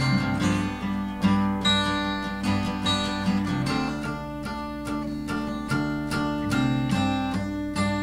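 Acoustic guitar strummed in a steady rhythm, its chords ringing; an instrumental passage with no singing.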